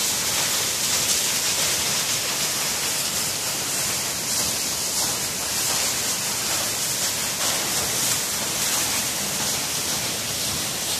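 Waterfall's falling water rushing steadily, a continuous hiss with no breaks.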